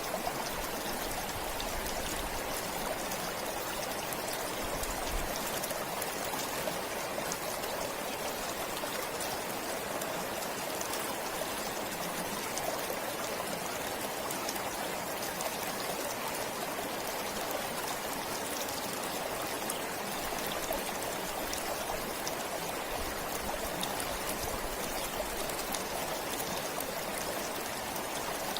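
A flowing stream running steadily, an even rush and trickle of water with no breaks.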